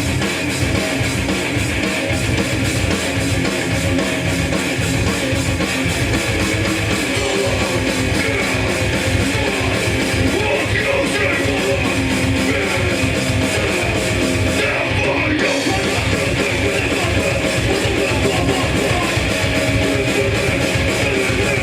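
Live hardcore punk band playing loud and fast: distorted electric guitar over a pounding drum kit, with no bass guitar in the lineup.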